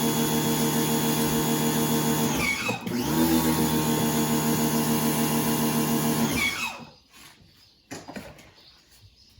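A power drill running in two bursts: a steady whine that winds down about two and a half seconds in, spins up again half a second later and winds down near the 6.5-second mark, then a few faint clicks of handling.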